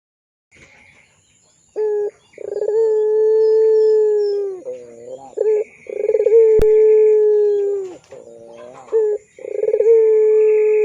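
Puter pelung dove cooing: three long drawn coos, each about two seconds on one pitch and dropping away at the end, each led in by a short note, with a wavering lower note between them. A sharp click sounds once mid-way.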